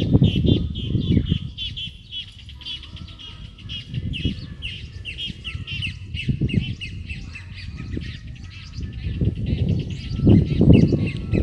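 A bird singing a fast run of repeated high chirps, about four to five a second, over irregular low rumbling noise that is loudest at the start and again near the end.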